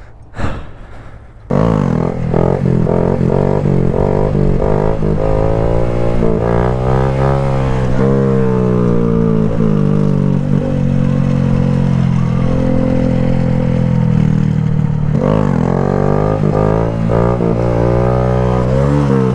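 Motorcycle engine heard close from the bike, starting abruptly about a second and a half in and pulling away, its pitch climbing and dropping again and again as it accelerates through the gears. It runs steadily through the middle and revs up and down again near the end. A brief sound about half a second in comes before it.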